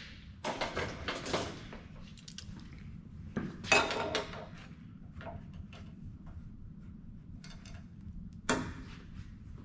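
Tools and metal parts being handled and set down: irregular clatter and clanks, loudest near the start, about four seconds in, and a sharp knock near the end.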